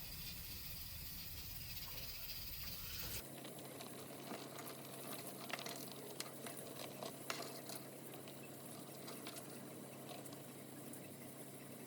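Home kitchen cooking sounds: a steady hiss, which cuts off suddenly about three seconds in, followed by scattered light clicks and taps of utensils over a low steady hum.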